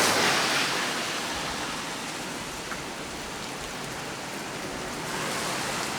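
Heavy rain falling steadily on a small tree, a dense even hiss. It is loudest at first, eases after about a second, and swells slightly again near the end.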